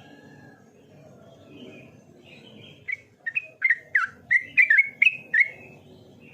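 Yellow-vented bulbul (trucukan) calling: after a few faint notes, a quick run of about ten loud, short chirps, each dropping in pitch, starts about three seconds in. A low steady background noise runs underneath.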